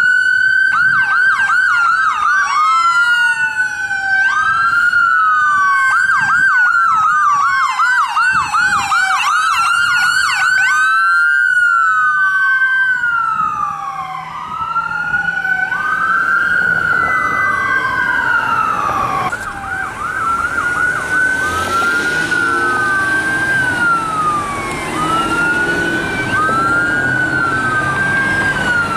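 Electronic emergency sirens of a fire engine and an ambulance running code 3, switching between a slow rising-and-falling wail and a fast yelp, at times two sirens overlapping. In the second half the sirens settle into slower wail sweeps over rising engine and road noise as the vehicles pass.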